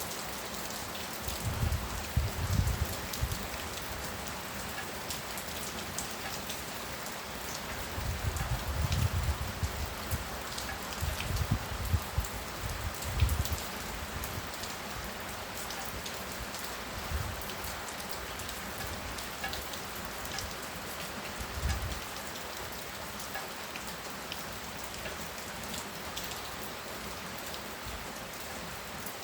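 Heavy rain falling steadily, with a dense patter of drops. Several short low rumbles come in the first half and once more later, louder than the rain.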